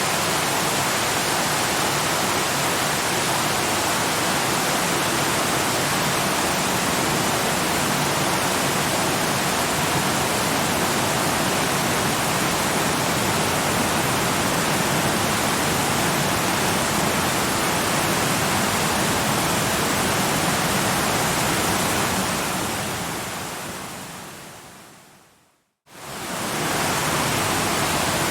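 Waterfall rushing as a steady, even roar. Near the end it fades away over a few seconds to a brief silence, then quickly fades back in.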